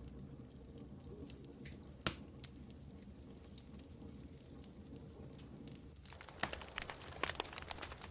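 Wood fire in a fireplace crackling: scattered snaps over a low steady rumble, one sharp pop about two seconds in, and a quick flurry of crackles in the last two seconds.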